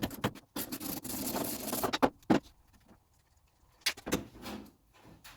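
Old steel door-hinge parts and bolts being handled: a scraping stretch in the first couple of seconds, then a few sharp clinks and knocks of metal on metal.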